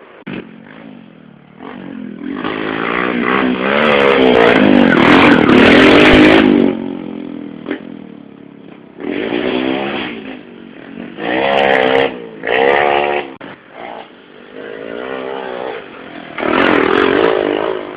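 Small 110cc motorcycles racing past one after another on a dirt-and-sand track, engines revving up and down. The loudest, longest pass comes about two to seven seconds in, followed by several shorter passes.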